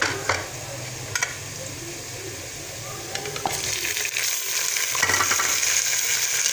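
Sliced onions frying in hot oil in a steel pot, with a few sharp clicks of a metal ladle against the pot early on; about four seconds in, raw chicken pieces go into the hot oil and the sizzle grows louder and brighter.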